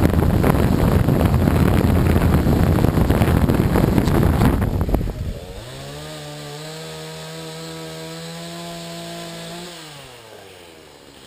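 Gaui 330X quadcopter's electric motors and propellers: a loud rushing buzz for about five seconds, then a sudden drop to a steady whine that winds down near the end as the motors spin down.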